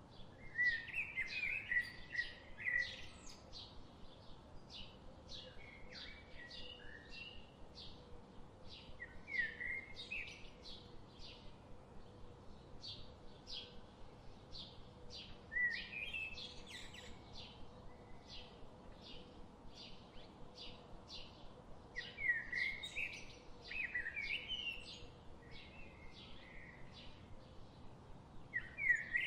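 Forest birds singing: a steady run of short, high chips at about one a second, with short warbling phrases from another bird every few seconds.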